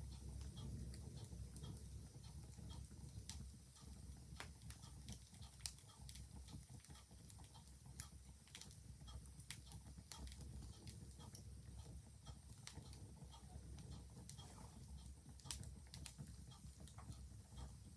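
A wood fire crackling with irregular sharp pops over a low rumble, with a mechanical clock ticking steadily and faintly underneath. The strongest pops come about a third of the way in, near halfway, and close to the end.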